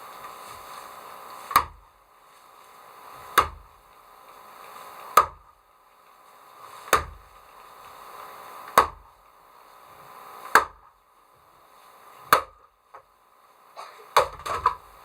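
Axe chopping wood: seven sharp, evenly spaced blows about two seconds apart, then a quick cluster of lighter knocks near the end.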